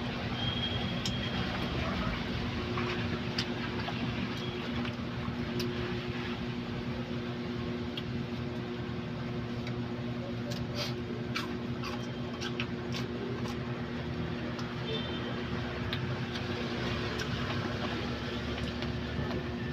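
Eating sounds: scattered small clicks and taps of utensils and chewing over a steady electrical hum.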